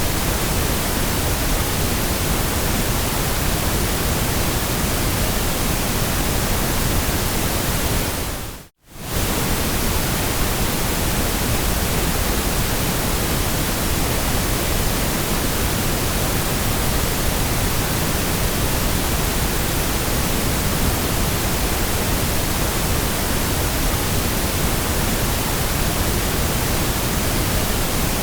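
Steady, even hiss of white noise spread across all pitches. About nine seconds in it dips briefly to near silence and fades straight back in, as at a loop point.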